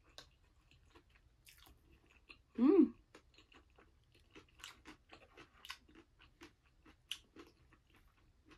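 Close-up chewing and mouth noises of someone eating curry and rice, many small clicks and smacks, with a short hummed voice sound about three seconds in that is the loudest moment.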